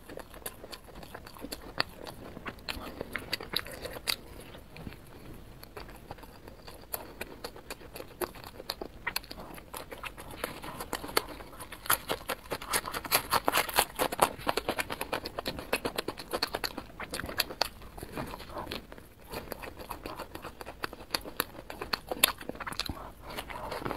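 Close-up chewing and biting of spicy skewered food, a steady run of small, sharp, wet clicks that grows busier and louder about halfway through.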